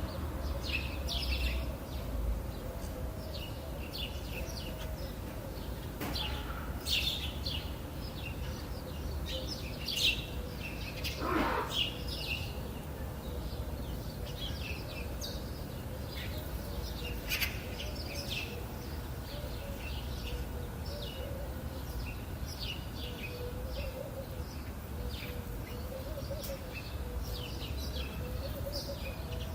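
Many small birds chirping and tweeting in a mixed chorus, short high calls overlapping, over a steady low rumble of outdoor ambience.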